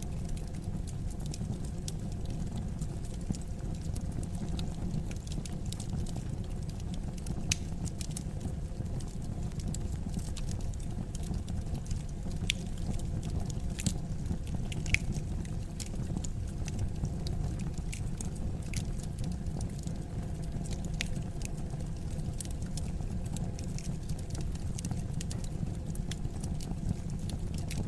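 Wood fire crackling in a fireplace: a steady low rumble of flames with scattered sharp pops and snaps, a few of them louder.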